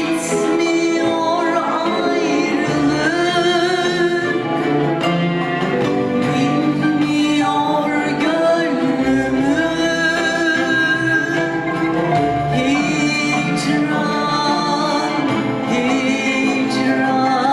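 A solo singer performing a Turkish song over instrumental accompaniment, holding long, wavering notes.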